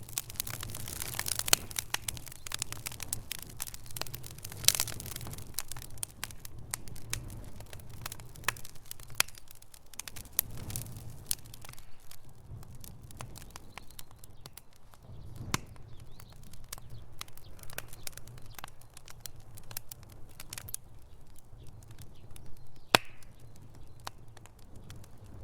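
Wood fire in a fireplace crackling, with irregular sharp pops and snaps over a low rumble of burning; one louder pop near the end.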